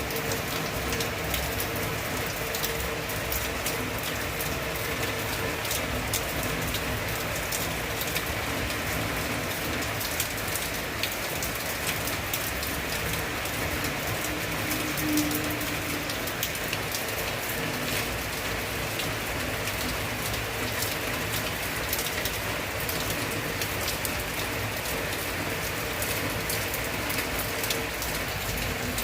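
Heavy rain falling steadily, a dense hiss of many drops pattering on surfaces.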